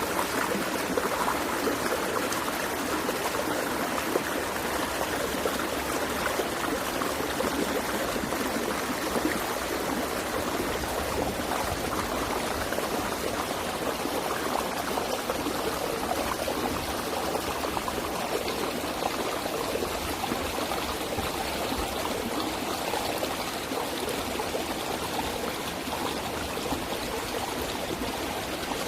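Water flowing in a stream, a steady rushing and trickling with no break.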